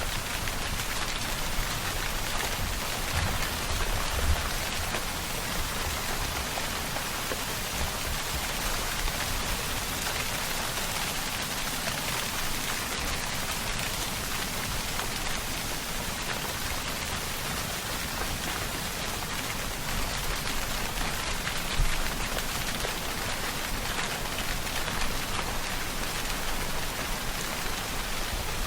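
Steady rainfall, an even hiss of drops on a surface with a few slightly louder spatters now and then.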